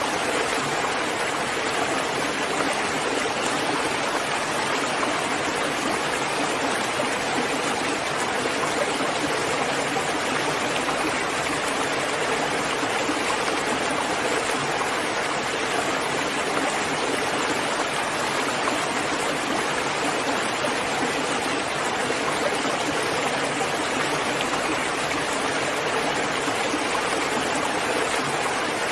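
Steady, unbroken rain, an even hiss with no distinct drops or thunder standing out.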